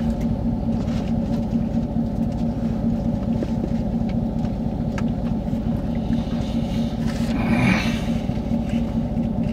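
Truck engine idling steadily, a low even hum and rumble heard from inside the cab, with a few faint clicks.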